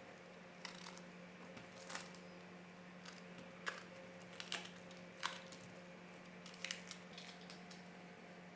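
A dozen or so small, sharp clicks and snips at irregular intervals over a faint steady hum.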